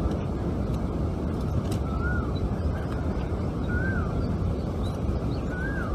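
A bird calls three times, each a short whistled note that rises then falls, about two seconds apart, over a steady rushing background noise.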